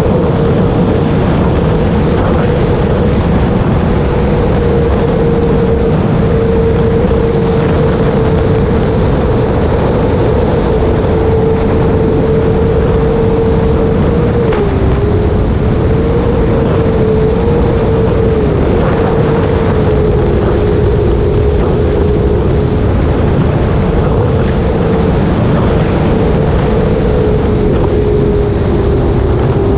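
Electric motor and propeller of an E-flite Air Tractor RC plane in flight, a steady whine that dips briefly in pitch about halfway through and wavers a little after, under heavy rushing wind noise.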